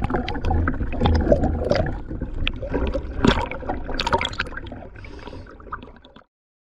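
Sea water sloshing and gurgling, with irregular small clicks and knocks, fading out and stopping about six seconds in.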